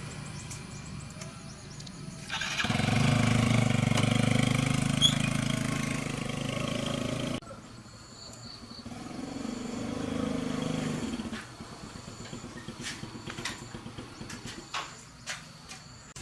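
A vehicle engine running loudly for about five seconds, then cutting off abruptly. A second, shorter engine swell rises and falls, followed by a run of light clicks and knocks.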